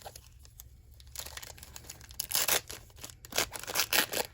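A trading-card pack wrapper being torn open and crinkled, in a series of short tearing bursts starting about a second in and loudest in the second half.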